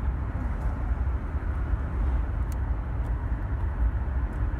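Steady low rumble of a car driving, road and wind noise heard from inside the car with a window open.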